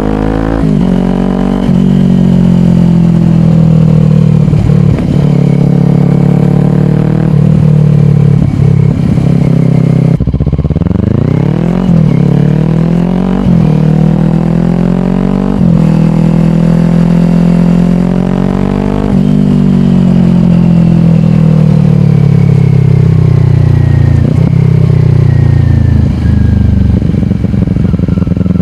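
2022 Kawasaki Ninja 400's parallel-twin engine through a slip-on exhaust, accelerating and shifting through gears: its pitch climbs and drops sharply again and again. Between pulls the revs fall off slowly as the bike slows.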